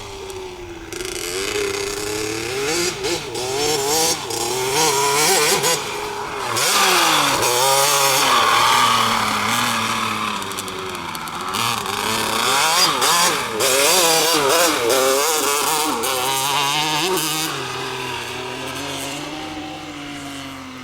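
Lem RX 65cc two-stroke minicross motorcycle engine revving up and down as it is ridden, the pitch rising and dropping again and again. It grows louder through the middle and fades near the end.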